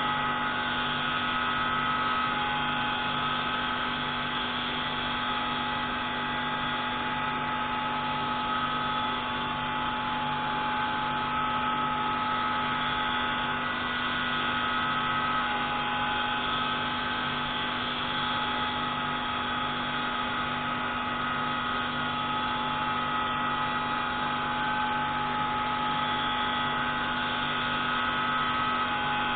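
Pneumatic grinding tool running steadily while grinding a marine engine's intake valve: a continuous machine whine with several steady tones over a low hum that pulses about twice a second.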